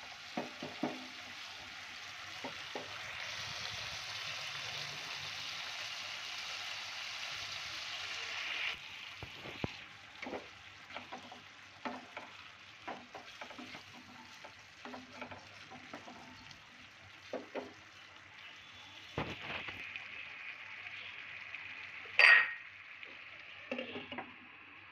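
Potato wedges sizzling in spiced gravy in a nonstick pan, with a wooden spatula clicking and scraping against the pan as they are stirred. The sizzle is loudest for the first several seconds, then eases. Near the end a sharp clink with a short ring comes as a glass lid is set on the pan.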